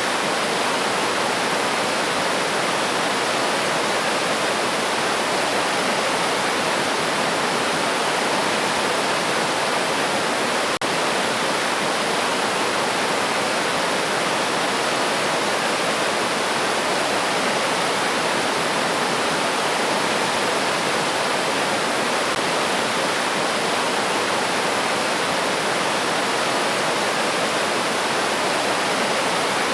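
River water rushing steadily over rocks, a dense, even hiss without birdsong, broken by a momentary dropout about eleven seconds in.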